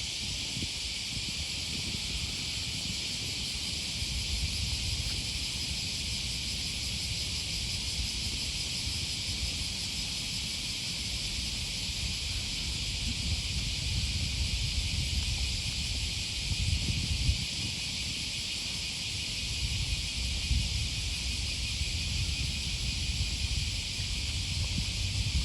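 Cicadas buzzing in a steady, unbroken high chorus, over a low uneven rumble.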